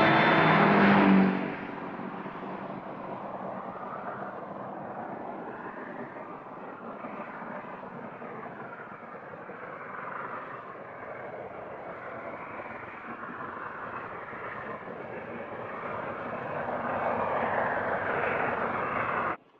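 Film score ends about a second in, giving way to a motor vehicle running, with slow surges in pitch. It grows louder near the end and cuts off abruptly.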